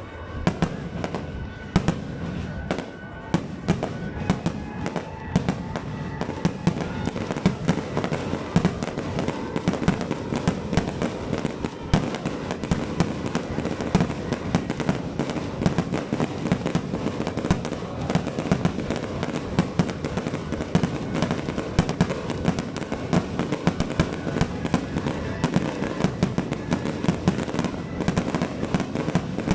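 Dense barrage of aerial firework shells bursting: many sharp bangs a second, overlapping with crackle, without a break.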